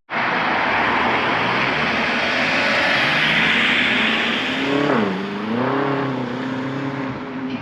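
Car engine accelerating hard past, loud with a rushing roar. About five seconds in, the engine note drops and then climbs again, like a gear change.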